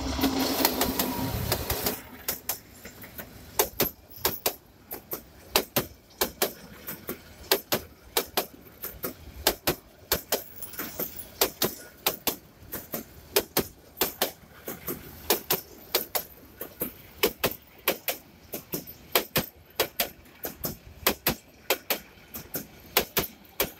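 A diesel passenger train passing close by. The locomotive goes past with a loud rumble for the first two seconds. Then the carriages roll by, their wheels clacking sharply over the rail joints, often in pairs, about two to three clacks a second.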